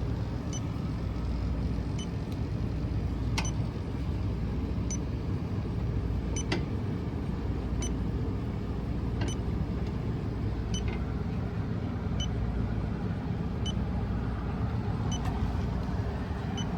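Electronic refrigerant leak detector ticking slowly and evenly, about once every second and a half, over the steady rumble of a Trane rooftop package unit running. The slow, unchanging tick rate means no refrigerant is being picked up.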